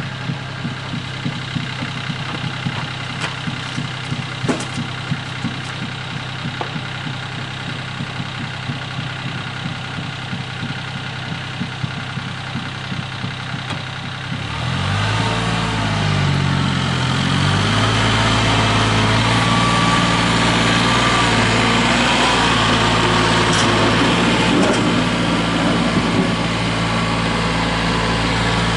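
Tractor engine idling steadily, then revving up about halfway through and running on at a higher speed, louder, to the end.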